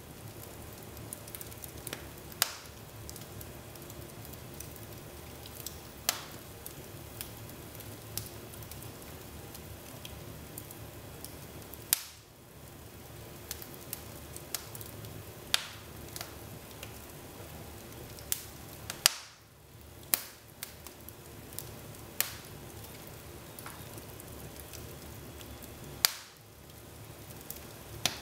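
Real wood fire burning in a fireplace: a steady soft hiss with irregular crackles every second or two and a handful of sharp, loud pops.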